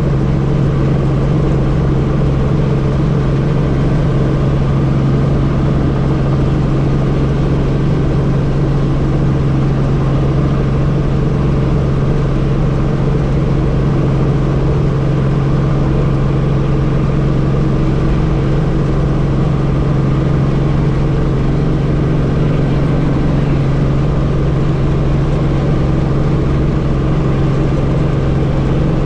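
Helicopter engine and rotor running with a loud, steady drone, a strong low hum, and no change in pitch or level.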